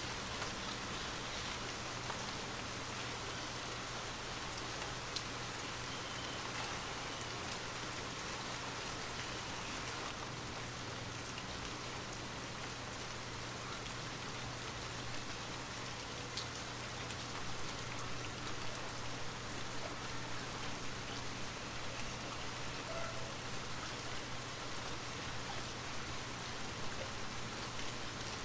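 Steady rain falling, with scattered raindrop ticks over an even hiss.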